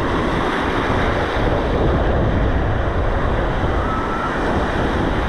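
Ocean waves washing and breaking in the shallows, with wind buffeting the microphone.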